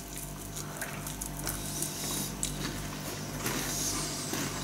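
Chewing and crunching of a light, flaky corn snack, scattered crisp crackles and clicks over a faint steady low hum.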